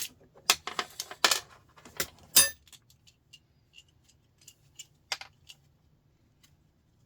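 Small metal parts from a mains plug, brass pins and screws, clinking and rattling as they are handled and taken out: a quick run of sharp clinks, the loudest about two and a half seconds in, then scattered lighter ticks.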